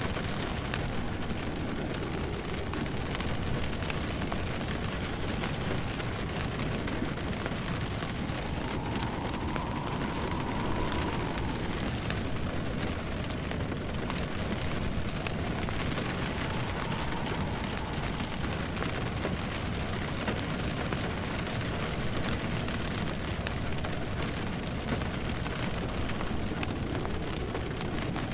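Steady rain pattering mixed with a crackling wood fire. A faint howl of wind swells and fades twice.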